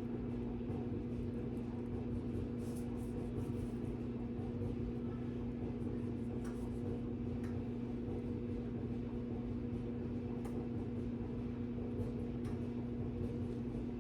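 Clothes dryer running: a steady low hum, with a few faint light clicks over it.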